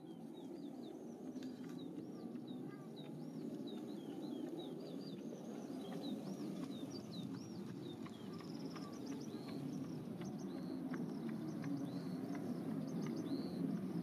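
Small birds calling with many short, high, arching chirps, heard over a steady low background rumble.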